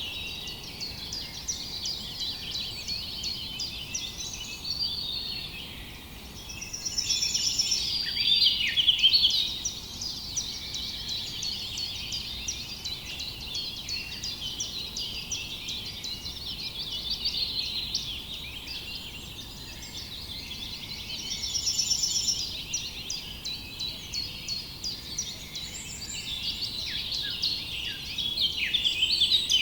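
Many small birds chirping and singing together in a dense chorus of overlapping short, high calls and trills, swelling louder about a third of the way in and again past the middle.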